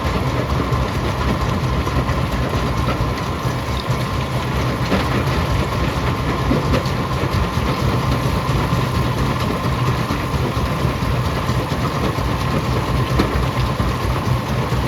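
Rock crusher running steadily: a loud, continuous mechanical drone with a constant low hum and many small scattered knocks.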